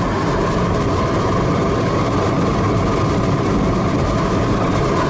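Steady, loud rush of airflow in the cockpit of a DG-300 sailplane at high speed on a winch launch the pilot calls very fast.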